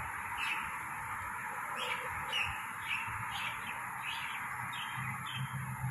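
A bird chirping about eight times in quick, uneven succession, each call a short note falling in pitch, over a steady background hiss.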